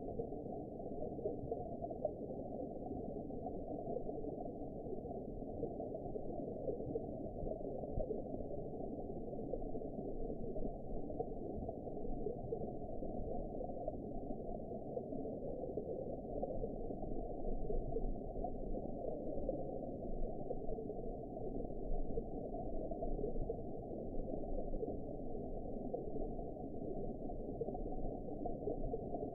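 Steady, muffled underwater ambience: a low, even wash of noise with nothing bright or high in it and no separate events.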